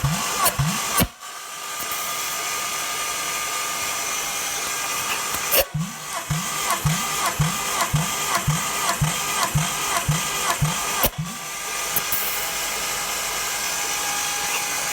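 A Hyundai G6BV 2.5 V6 engine cranked over by its starter motor in bursts for a compression test, each compression stroke giving an even pulse about three times a second. Cranking stops suddenly about a second in, starts again near six seconds and stops once more near eleven seconds.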